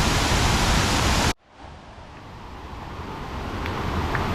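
Steady rushing of waterfall cascades, cutting off suddenly about a second in, then returning faintly and slowly growing louder.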